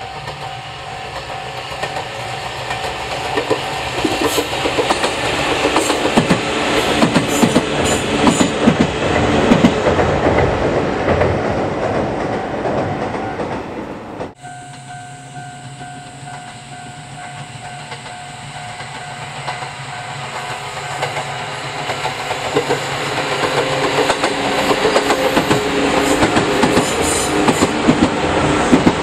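Sangi Railway electric train passing on jointed track, its wheels clacking over the rail joints. The sound builds to its loudest about ten seconds in and cuts off abruptly about halfway through. Another train's running sound then builds up again toward the end.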